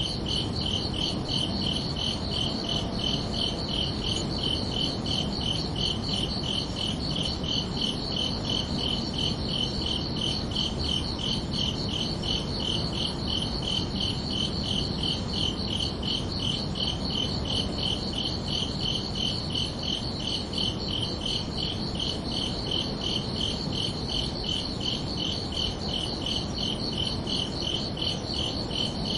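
Crickets chirping in a steady, even rhythm of rapid high-pitched pulses, over a low steady background hiss.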